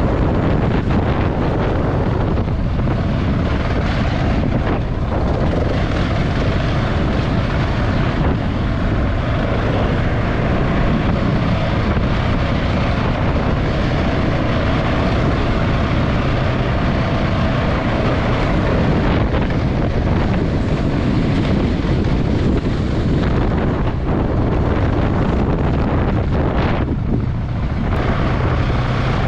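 Husqvarna 701's single-cylinder four-stroke engine running steadily while the bike is ridden over a rough dirt trail, with wind rushing over the helmet-mounted microphone.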